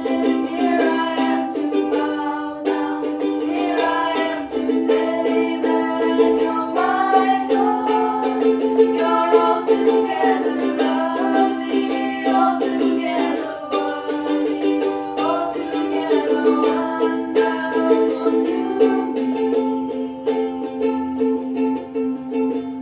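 Instrumental music: a strummed acoustic string instrument playing held chords at a steady strumming pace.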